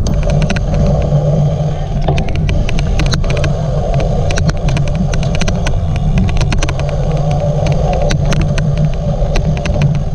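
Cyclocross bike ridden at race pace: a heavy rumble of wind and tyres on the microphone, with an odd, irregular clicking running through it.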